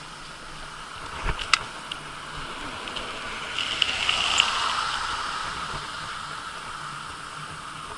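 Rushing road noise while riding a bicycle, with a few sharp clicks about a second and a half in. A louder swell of traffic noise builds and peaks about four seconds in, then slowly fades, as a vehicle passes.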